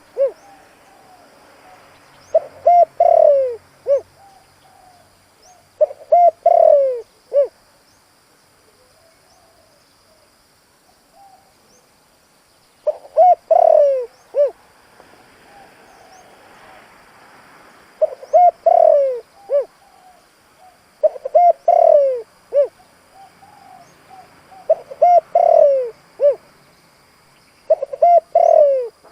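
Male spotted dove cooing its song: about eight repeated phrases, each a few short coos ending in a longer falling coo and a short final note, with a pause of about five seconds near the middle.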